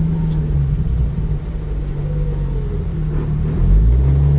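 Toyota 2JZ straight-six engine in a Honda Odyssey drift car, running steadily as the car drives. Its pitch dips briefly about three seconds in, then it gets louder near the end.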